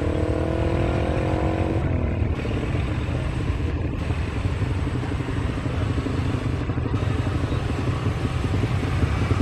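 Engine rumble, low and steady, with a higher hum rising slightly in pitch that stops about two seconds in.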